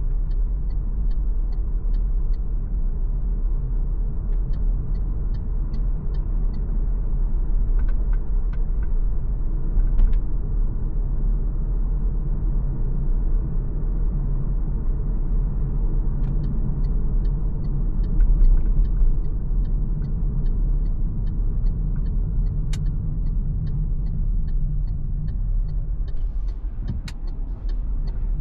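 MG ZS Hybrid+ driving along a mountain road: a steady low rumble of tyres and drivetrain, with a faint, evenly paced ticking in stretches.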